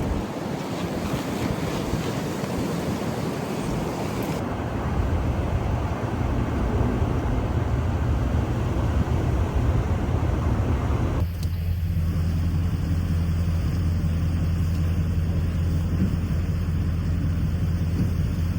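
Strong wind blowing across the microphone, with a steady low vehicle engine hum joining about four seconds in. Near the middle the wind noise cuts off abruptly, leaving the low hum of the vehicle.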